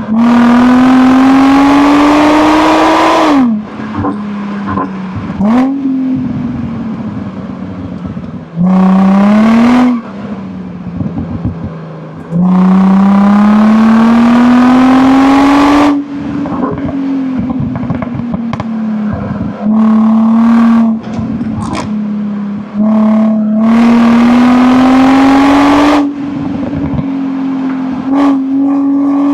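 Infiniti G35's VQ35 3.5-litre V6 exhaust in several hard pulls up through the revs, the tone climbing steadily each time. Each pull ends with a sudden drop in loudness as the throttle closes, and the engine runs quieter with scattered crackles before the next pull.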